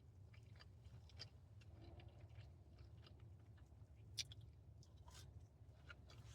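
A person chewing fast food, quietly, with small scattered mouth clicks. One sharper click comes about four seconds in, over a steady low hum.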